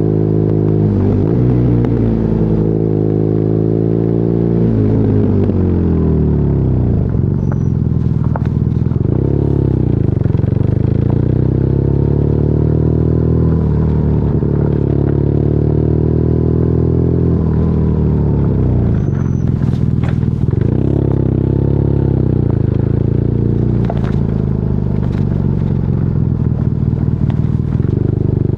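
BMW R nineT's air/oil-cooled boxer twin, running through an Akrapovic exhaust while under way. Engine pitch climbs and falls several times as it revs up through the gears and backs off, with a few sharp clicks along the way.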